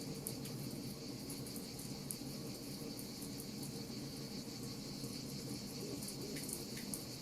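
Wood fire crackling with frequent small, sharp pops over a steady high-pitched hiss and a low continuous rumble.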